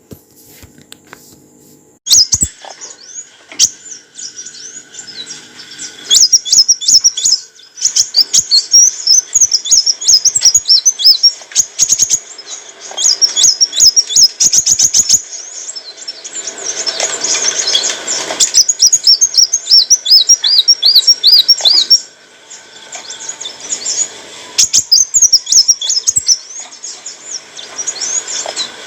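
Kolibri wulung sunbird singing: rapid, high-pitched twittering chirps and trills in quick bursts, broken by short pauses.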